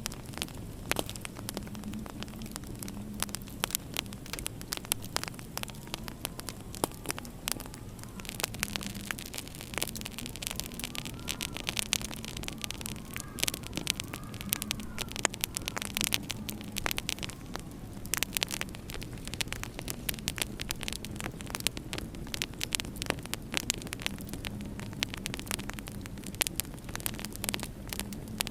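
Wood fire crackling in a fireplace, with many sharp pops, over a low steady drone of winter wind. A faint whistling rises and falls about halfway through.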